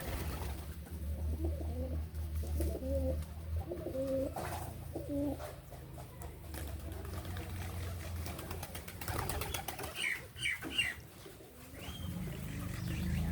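Birds calling: a series of low notes in the first half, then a few short high chirps about ten seconds in, over a steady low background hum.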